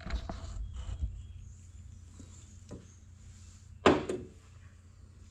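Light handling clatter and rustling, then a single sharp knock about four seconds in.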